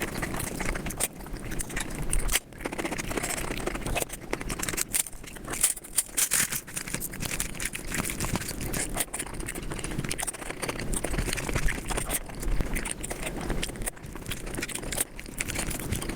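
Close-miked mukbang eating sounds sped up five times: a dense, unbroken run of rapid chewing clicks, smacks and scrapes.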